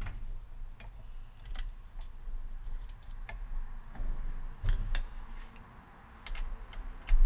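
Light, irregular metal clicks and ticks of an Allen wrench working two Allen-head screws into a chainsaw's bucking spikes, with a low hum underneath.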